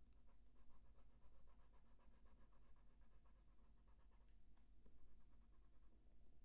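Faint scratching of a soft coloured pencil shading on paper, in quick, even, repeated strokes.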